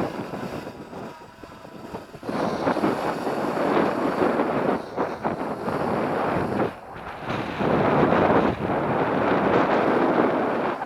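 Strong gusty wind buffeting the microphone in a rough rumbling rush. It is fairly quiet for the first two seconds, then comes in loud gusts with brief lulls.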